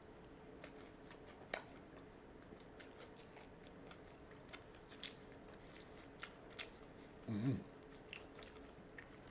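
Close-miked chewing of a Popeyes fried chicken sandwich: sharp crunches and clicks from the crispy breading, spaced irregularly, with a short hum of the voice about seven seconds in.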